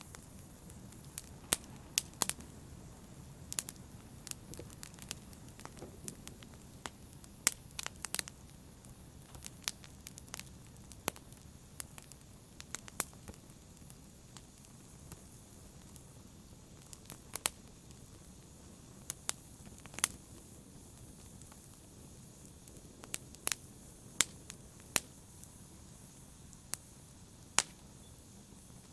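Wood fire burning in a fireplace: a steady low sound of flames with irregular sharp crackles and pops, some coming in quick pairs.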